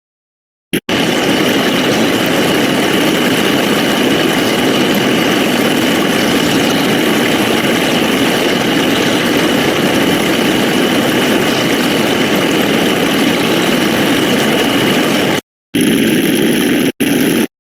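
A dense, loud wash of many layered synthetic sound effects playing at once, with a steady high tone running through it. It cuts to dead silence for most of the first second, and again briefly twice near the end.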